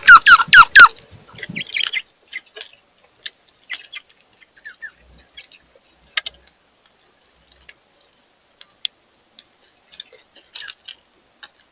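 Birds calling: a quick run of four or five loud, falling chirps right at the start, then scattered soft clicks and short chirps.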